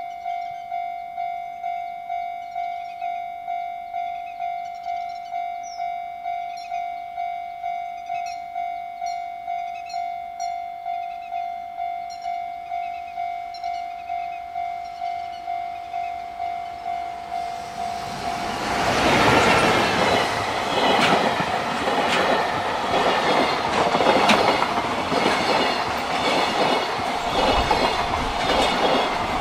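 Level-crossing warning bell ringing steadily, about two rings a second. About 18 seconds in, a JR Freight EF210 electric locomotive and its empty container flatcars pass close by, loud with the clatter of wheels over the rail joints.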